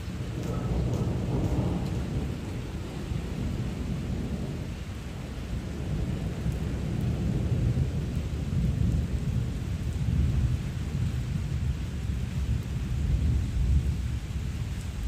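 Heavy rain falling on a flooded yard, with a low rumble underneath that rises and falls.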